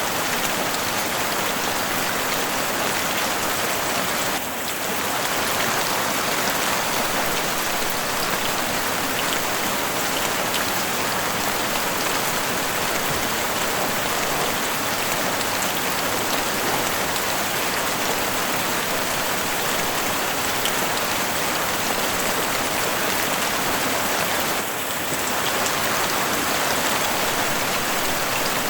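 Heavy rain falling on a house roof: a dense, steady hiss of drops that dips briefly twice, about four seconds in and near the end.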